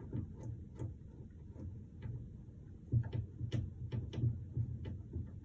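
An adjustable wrench being set and adjusted on a metal pipe fitting: irregular small metallic clicks and taps, busiest in the second half, over low bumps and rustle from handling.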